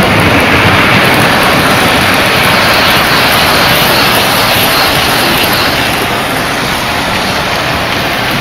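O-scale model trains running on the layout's track: a steady, loud rumble of wheels and motors, easing slightly in level after about six seconds.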